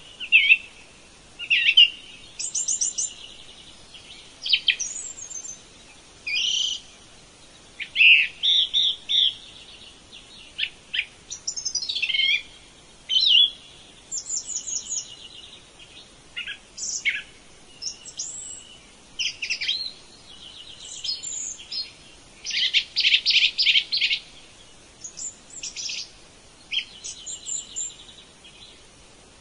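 Forest birds calling and singing in a steady run of short chirps, whistled phrases and quick trills, with a burst of rapid, louder notes a little past the middle.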